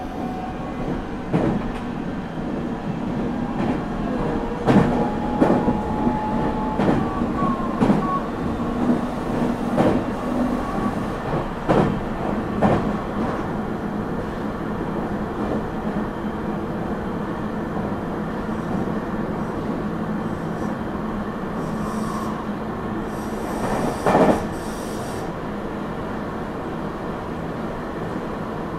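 Meitetsu 9500 series electric train heard from inside the car: wheels knocking over rail joints and points, with some wheel squeal, during the first half. Then a steadier running hum, broken by one short loud noise about 24 seconds in.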